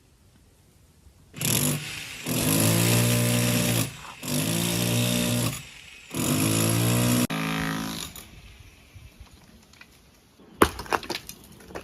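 Electric rotary hammer (hammer drill) boring into hard concrete in four bursts of a second or so each, its motor winding down after the last burst. A few sharp knocks near the end.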